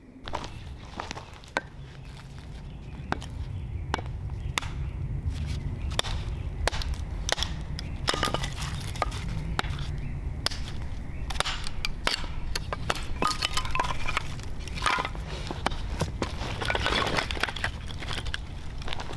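Wood campfire crackling and popping: a steady low rumble with many irregular sharp snaps, growing louder over the first few seconds.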